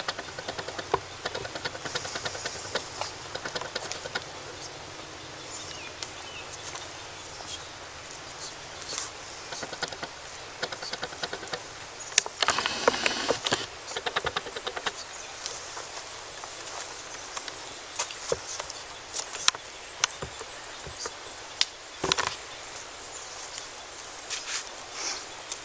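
Scattered small clicks and rustles of things being handled, with a longer, louder rustle about twelve seconds in, over quiet outdoor background.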